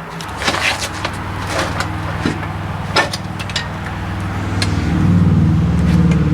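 Scattered clinks and knocks of tools on metal over a steady low hum of a running motor, which grows louder about five seconds in.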